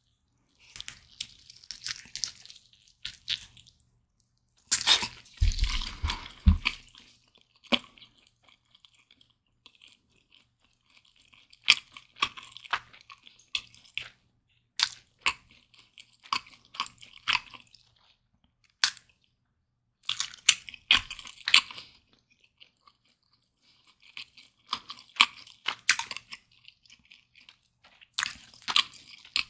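Close-miked bites and chewing of a roast chicken leg: crunching and wet mouth sounds in bursts of a second or more, with short quiet pauses between mouthfuls. The biggest burst comes about five seconds in, with a few low thuds.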